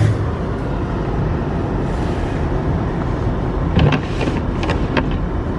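Steady road and engine noise inside a car cabin, driving slowly over a snow-covered road, with a few sharp clicks near the end.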